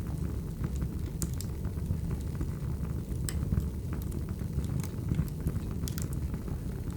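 Crackling wood fire: a steady low rumble of burning logs with sharp crackles and pops scattered irregularly through it.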